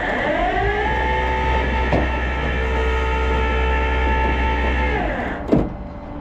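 Flatbed tow truck's hydraulic pump running: a whine rises in pitch over about a second, holds steady, then winds down about five seconds in, followed by a short clunk.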